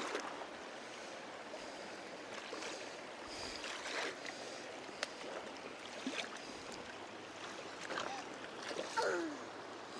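Shallow creek water running steadily, with a few light knocks and splashes scattered through and a brief faint falling squeak near the end.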